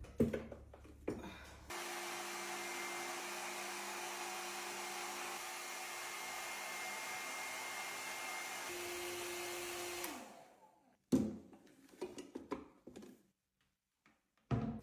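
A small electric motor appliance runs steadily for about eight seconds with a whirring hiss and hum, then switches off, its hum sliding down in pitch as it winds down. A few short knocks and clatters follow.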